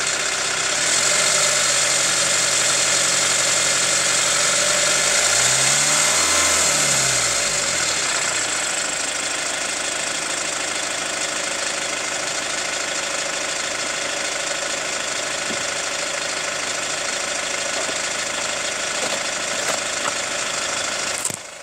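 Hyundai ix35 CRDi 136 hp diesel engine idling warm with a knock that the owner puts down to either the hydraulic lifters or the timing chain tensioner. About five seconds in it is blipped once, the revs rising and falling back, then it idles steadily again.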